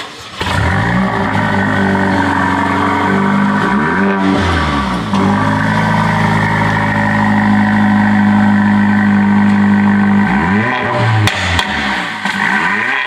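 Mercedes-AMG CLA45's turbocharged 2.0-litre four-cylinder starting up and idling, heard at its quad exhaust tips. It is revved once about four seconds in and held steady, then blipped quickly several times near the end, with sharp pops among the last blips.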